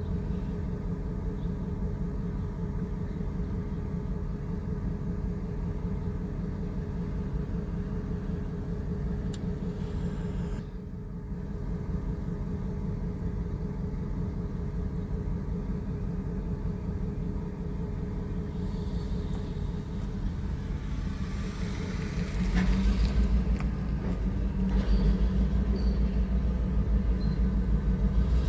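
Log train's diesel locomotive rumbling steadily with a deep engine drone, growing louder about three-quarters of the way through.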